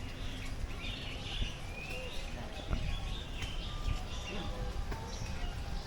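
Birds chirping and calling, short repeated calls with a rising whistle about two seconds in, over a low rumble of background noise.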